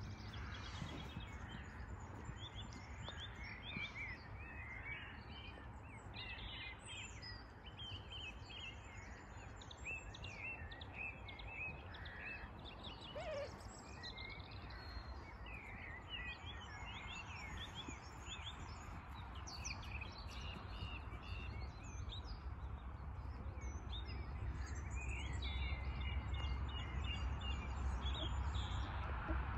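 Birds chirping and singing, many short rapid calls overlapping, over a low outdoor rumble that grows louder toward the end.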